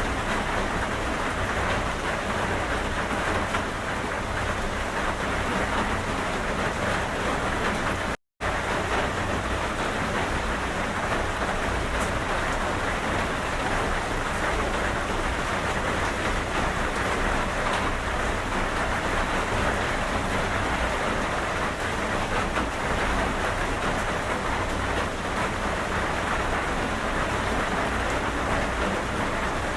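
Steady rain falling. The sound cuts out completely for a split second about eight seconds in.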